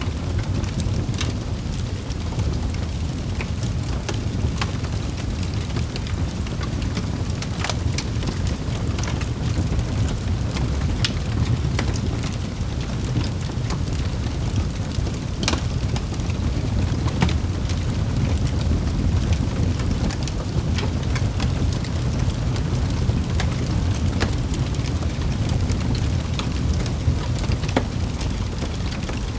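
Wood fire in a fireplace crackling: a steady low rumble of flames with scattered sharp pops and snaps, one louder pop about halfway through.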